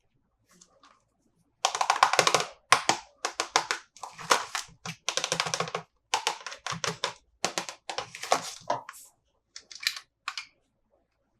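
Toy packaging and plastic toy figures being handled and unboxed: a run of short, scratchy, clicky handling noises that starts about a second and a half in and stops near the end.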